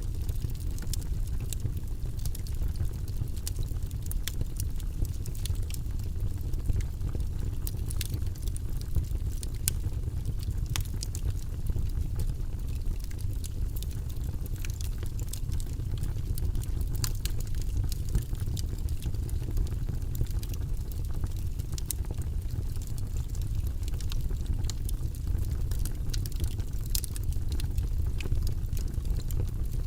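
Wood logs burning in a fireplace: a steady low rumble of flame with frequent small, irregular crackles and pops from the wood.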